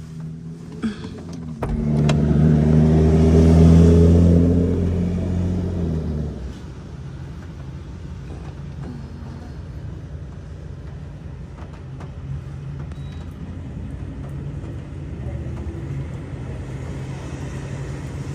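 A car engine running close by with a low, pitched hum. It comes in suddenly about one and a half seconds in and is loudest for about five seconds, then settles to a steadier, quieter hum.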